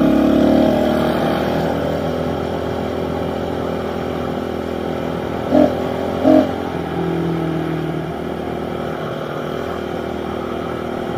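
Pit bike engines running as the bikes ride along, revving up a little near the start. Two short loud beeps sound about five and a half and six seconds in.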